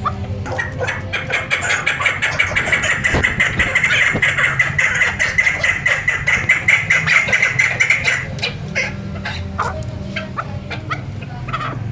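Chukar partridge calling: a fast, unbroken run of clucking notes for about seven seconds, then a few scattered single notes.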